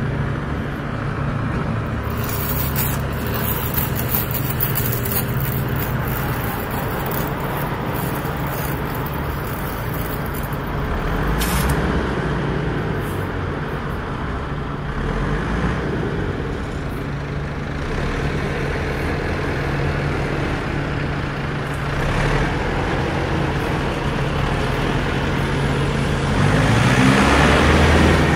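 Motor vehicle engine noise with traffic, running steadily, its pitch shifting now and then and growing louder near the end as an engine speeds up.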